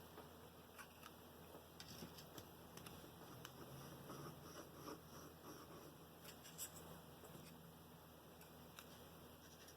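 Near silence with faint, scattered small taps and rustles of paper and card being handled.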